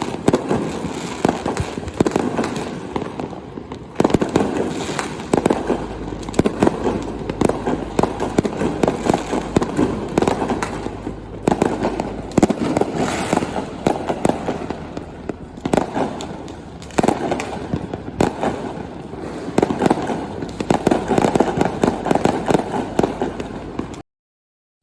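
Fireworks display: a dense, continuous run of overlapping bangs and crackling, with louder single bursts standing out now and then. It cuts off abruptly about a second before the end.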